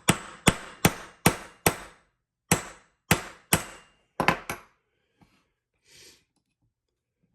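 Hammer striking a pin punch to drive a pin into an AR-15 lower receiver: about a dozen sharp taps with a short ring after each, in a steady rhythm over about four and a half seconds.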